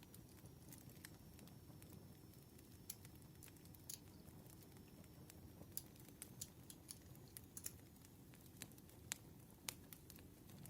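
Campfire crackling faintly: scattered, irregular sharp pops and snaps over a soft low rumble of the burning wood.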